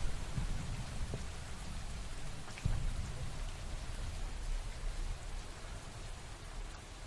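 Steady rain falling, with a few louder drops striking a surface over a low rumble. It eases slightly near the end.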